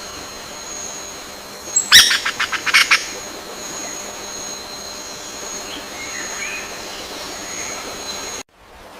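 Bird chirping: a quick run of about eight loud chirps about two seconds in, then fainter calls. A thin high steady tone and a soft hiss run underneath, and the sound drops out briefly near the end.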